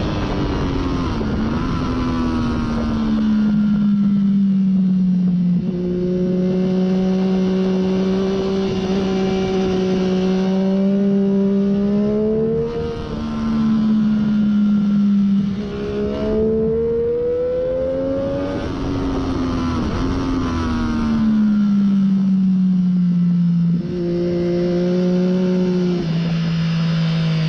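Triumph Daytona 675 inline three-cylinder engine with a slip-on muffler, heard onboard at speed with wind rushing past. The revs fall early, hold steady for several seconds, climb with quick breaks at gear changes around the middle, then fall away and settle again near the end.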